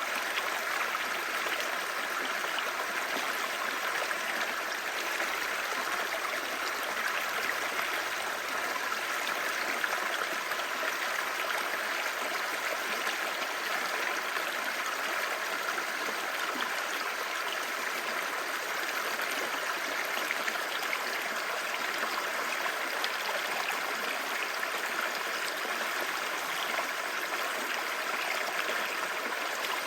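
Clear mountain stream babbling over stones, a steady rush of water.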